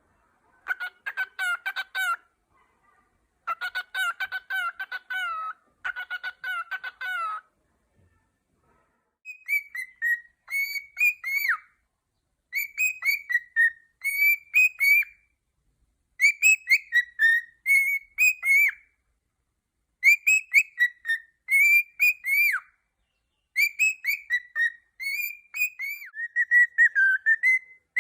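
Male cockatiel singing. It opens with three bursts of fast, rapidly repeated notes, then from about nine seconds in gives a run of whistled phrases made of short downward-sliding notes, with brief pauses between them.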